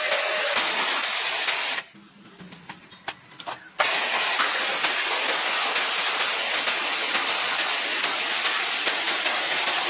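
A steady, loud hiss, broken off abruptly for about two seconds near the start with a few faint clicks in the gap, then resuming unchanged.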